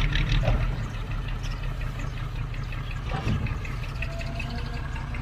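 Heavy diesel engine of an earthmoving machine running steadily, with a rapid, even ticking over it. A brief falling sweep comes about three seconds in.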